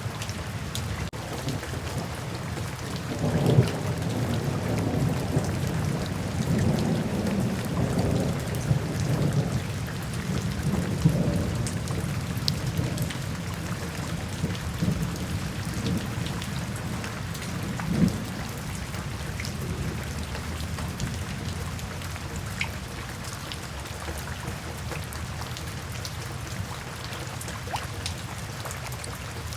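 Steady rain falling, with a long roll of thunder rumbling up a few seconds in and fading out over about ten seconds. A short, sharper rumble follows about two-thirds of the way through.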